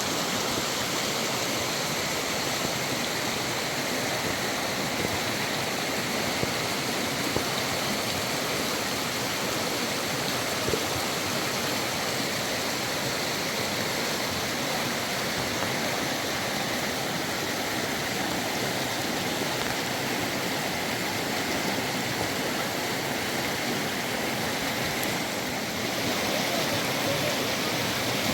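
Fast-flowing river water rushing steadily, its tone shifting slightly near the end.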